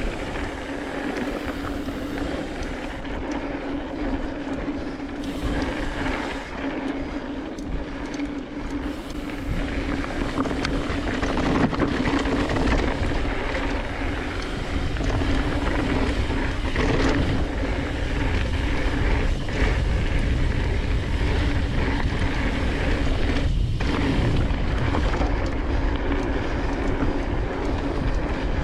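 Mountain bike descending dirt singletrack at speed: wind rushing and buffeting over the camera microphone, with knobby tyres rolling on the dirt and the bike rattling. It gets louder about ten seconds in as the speed builds.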